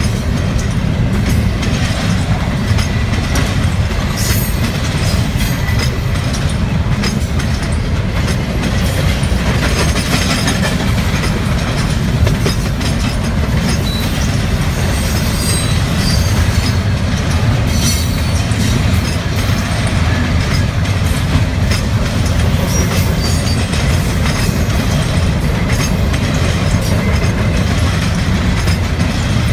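Double-stack container well cars of a freight train rolling past at close range: a steady, loud rumble of steel wheels on rail with a continuous clatter of clicks.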